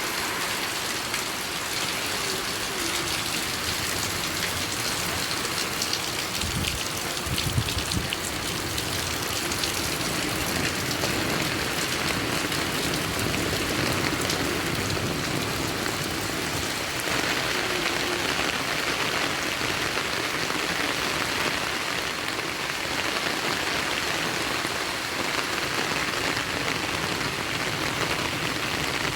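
Heavy rain falling steadily, with a short low rumble about seven seconds in.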